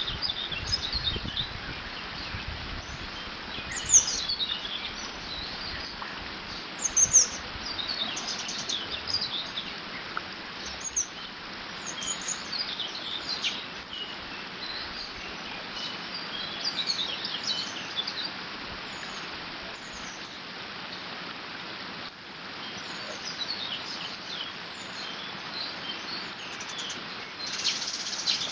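Songbirds chirping and singing in short scattered phrases, a few louder calls about 4 and 7 seconds in and near the end, over the steady rush of water flowing through a beaver dam.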